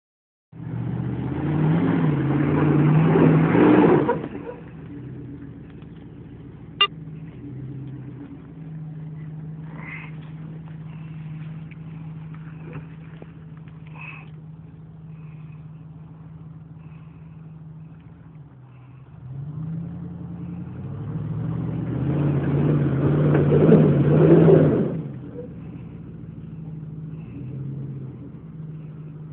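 Jeep Grand Cherokee's engine revving hard twice, each rev lasting a few seconds, with a steady idle in between as the truck crawls through a muddy rut. A single sharp click about seven seconds in.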